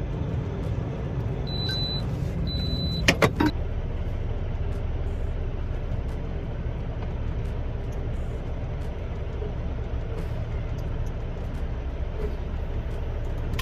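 Semi truck's diesel engine running with a steady low rumble heard from inside the cab. About a second and a half in come two short high beeps, then a few sharp clicks.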